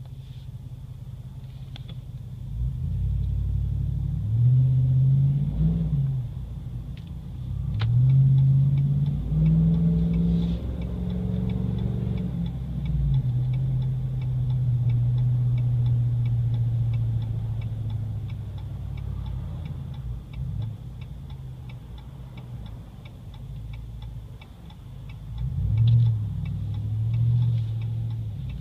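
2014 Ram 2500's 6.4-litre Hemi V8, heard inside the cab with the windows up, exhaust through a 40 series Flowmaster muffler with the resonator deleted. The deep exhaust note rises as the truck accelerates a few seconds in and again from about eight to twelve seconds, settles into a steady cruise, and picks up again near the end. A regular light ticking runs underneath.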